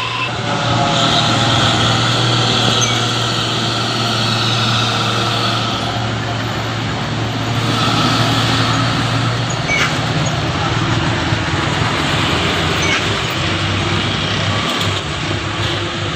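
Truck engine running steadily under load, a constant low drone with road and mechanical noise over it.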